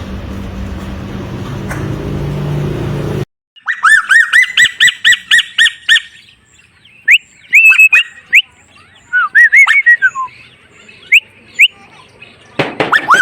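A small songbird sings fast rows of sharp rising chirps, about five or six a second, broken by scattered single whistled notes, with another fast row near the end. Before the song, there are about three seconds of steady noisy hum that cuts off suddenly.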